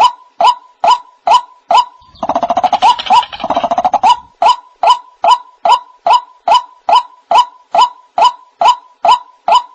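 White-breasted waterhen calling: short pitched calls repeated evenly, a little over two a second, broken about two seconds in by a rapid croaking chatter lasting about two seconds before the steady calls resume. This is a waterhen call used as a hunting lure.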